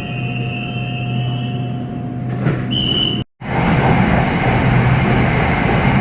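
SRT Red Line electric commuter train heard from inside the car: a steady hum with thin high whines, and a short beep about three seconds in. Right after the beep the sound cuts out for a split second, then returns as a louder, even running noise of the train travelling fast.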